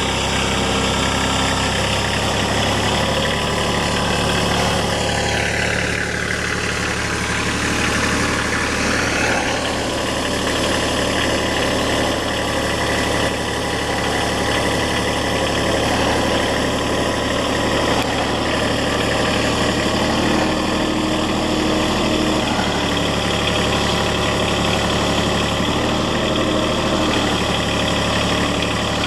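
Kubota L3130 tractor's diesel engine running at a steady idle. Its pitch dips and comes back up once, about five to ten seconds in.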